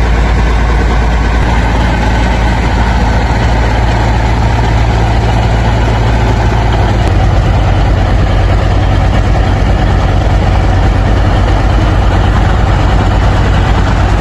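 Pickup truck engine running with a loud, steady low drone, heard together with road and cab noise; the low hum shifts about halfway through.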